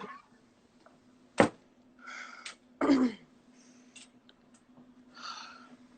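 Quiet gap with a sharp click about a second and a half in, two short breathy exhalations, and a brief murmur, over a faint steady hum.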